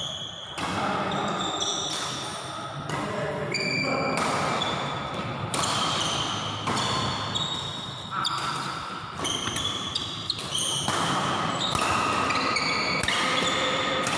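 Badminton doubles rally in a large hall: repeated sharp racket hits on the shuttlecock and short high squeaks from shoes on the court floor, with the hall's echo.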